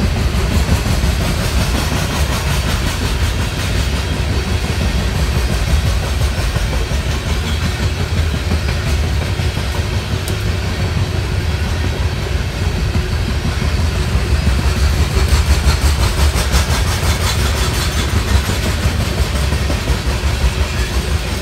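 Loaded coal hopper cars of a freight train rolling past: a steady low rumble of steel wheels on rail, with rhythmic clacking from the wheels that grows more distinct in the second half.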